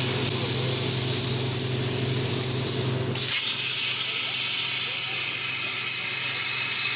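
Plasma cutting torch on a CNC table running with a loud, steady hiss. About three seconds in, a low hum underneath stops and the hiss carries on alone.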